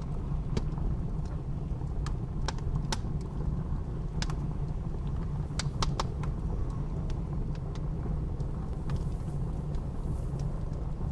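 Wood fire crackling, with irregular sharp pops, over a steady low rush of blizzard wind.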